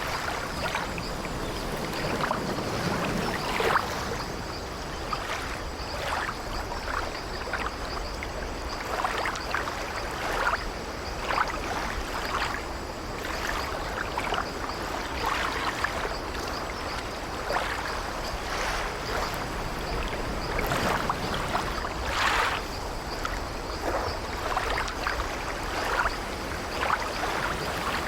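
Sea water lapping and sloshing against a wooden ship's hull: a steady wash broken by irregular small splashes, one every second or so.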